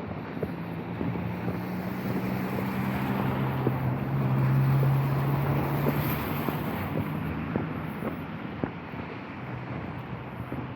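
A vehicle passing on a wet road: engine hum and tyre hiss swell to a peak about five seconds in, then fade away.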